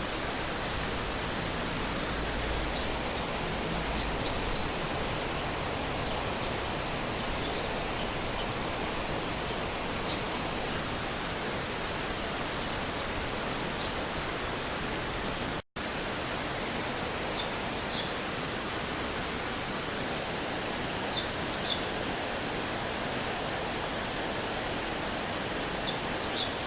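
Stream water rushing steadily, with a few short high chirps now and then. The sound cuts out for an instant about two-thirds of the way through.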